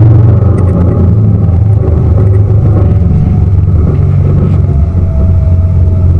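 Tour boat's engine running steadily under way: a loud, constant low drone with rushing noise above it.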